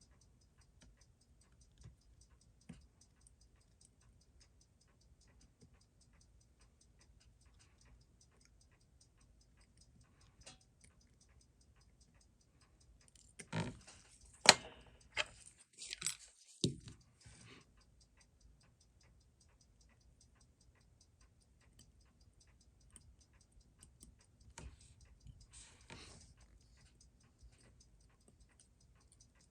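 Faint, steady, fast ticking throughout, with clusters of small sharp clicks and short scrapes of tools and parts on a wristwatch movement being taken apart, the loudest between about 13 and 17 seconds in and again around 25 seconds.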